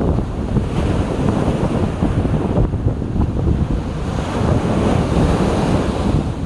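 Sea waves washing on the shore, with wind buffeting the microphone. The surf surges about a second in and again for a couple of seconds past the middle.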